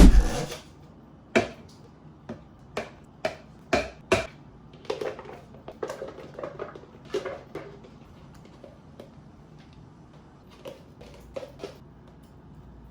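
A loud thump, then kitchenware clinking and knocking in a small room: irregular clatter of dishes and utensils during meal prep that thins out after about eight seconds.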